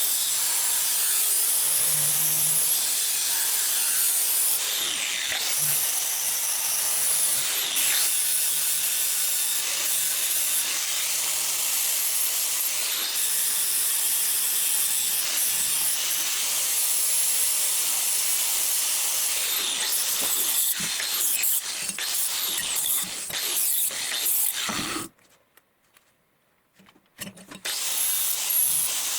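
Abrasive power tool grinding the steel of a wood saw blade, a steady hissing scrape. It breaks off for about two seconds near the end, then starts again.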